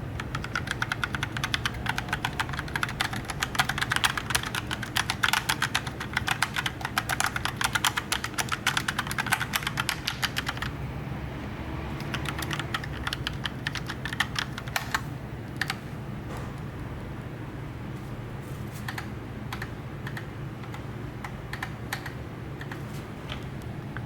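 Logitech POP Keys mechanical keyboard being typed on fast, a dense run of key clacks for about ten seconds, then slowing to scattered single clicks.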